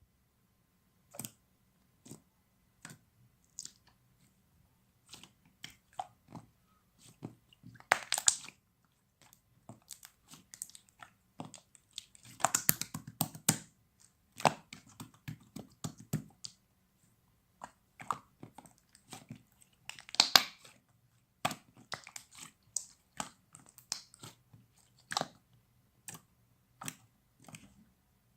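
Close-up chewing and crunching: irregular crisp clicks, with denser bursts of crunching about 8, 12 to 13 and 20 seconds in.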